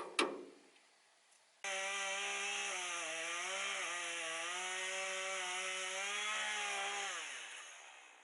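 Two short knocks, then a chainsaw starts up abruptly at high revs and runs steadily, its pitch dipping and recovering a little as it cuts. Near the end it winds down, the pitch falling away as it fades.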